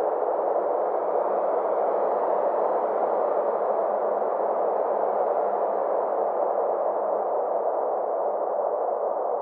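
Steady synthesized space-ambience drone: a soft band of filtered noise centred in the mids, its upper edge slowly sweeping up and down, over a faint low steady tone.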